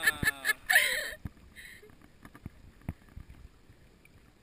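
A drawn-out vocal call that ends with a loud shout about a second in, followed by a few scattered knocks and faint background noise.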